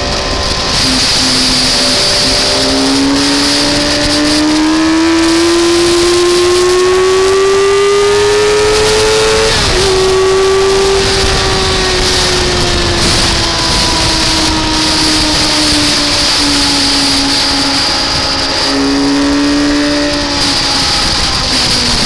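Car engine on track, the revs climbing steadily for several seconds, then dropping sharply at a quick upshift about ten seconds in. The revs then fall slowly as it lifts off, with a short step up near the end, over a steady hiss.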